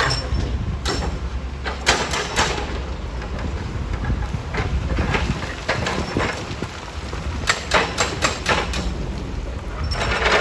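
Rock-crushing machinery running with a steady low rumble, with irregular clusters of sharp clanks and knocks of rock against steel: about a second in, around two seconds, between five and six seconds, and again near eight seconds.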